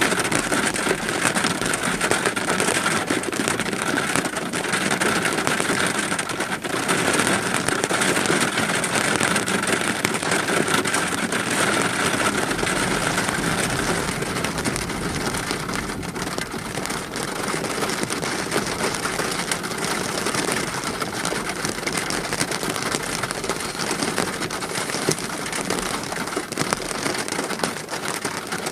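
Steady rain falling, a dense even hiss of rain that eases slightly about halfway through.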